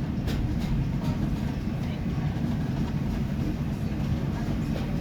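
Steam-hauled passenger train carriage running along the track, heard from inside: a steady low rumble with a couple of clicks in the first second.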